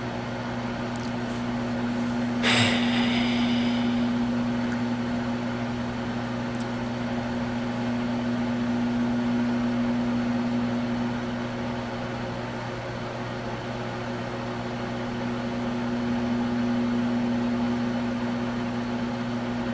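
Microwave oven running with a steady electrical hum while it heats egg rolls. A single sharp clink about two and a half seconds in rings briefly.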